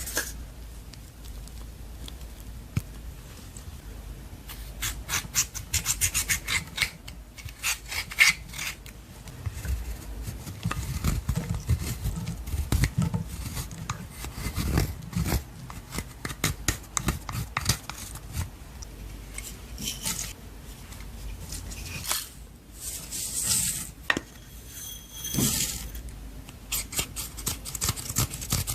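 Clear slime being worked with makeup mixed in, giving a run of sticky clicks, crackles and rubbing sounds in uneven bursts.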